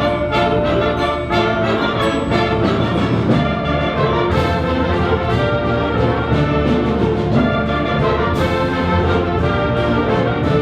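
Orchestral or band music with prominent brass, playing continuously at an even level.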